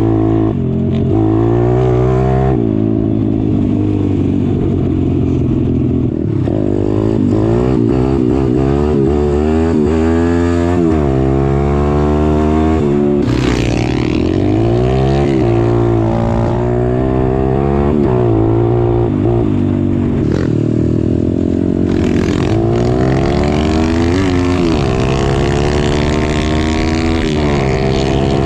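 Pit bike engine being ridden hard, revving up and falling back over and over as it climbs through the gears and the throttle is rolled on and off.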